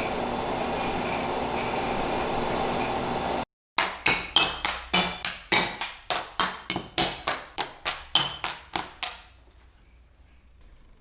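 Stained glass being ground: a steady abrasive grinding noise for a few seconds. After a cut, a run of short rubbing strokes on glass follows, about three a second, each with a faint high ring, stopping about nine seconds in.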